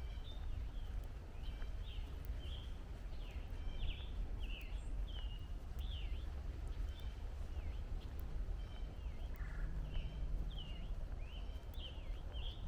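A songbird singing a quick, continuous run of short slurred high notes, over a steady low rumble of distant traffic.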